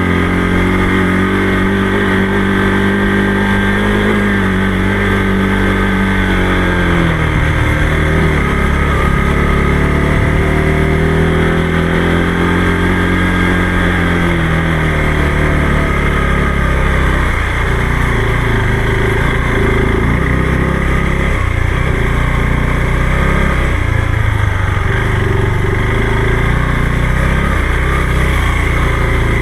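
Motorcycle engine running under way, its pitch falling and climbing again with the throttle, with dips about a quarter and about half way through, over a steady rush of riding noise.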